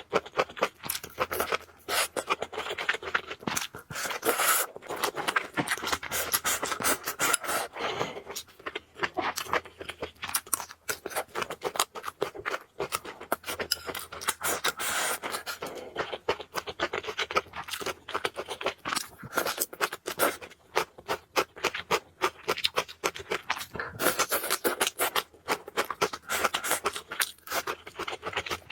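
Close-miked eating sounds: a person chewing and slurping noodles, a dense run of rapid mouth clicks and smacks.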